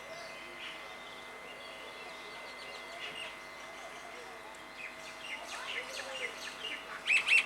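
Outdoor ambience with birds chirping faintly, then a bird's loud, rapid series of repeated high calls starting about seven seconds in.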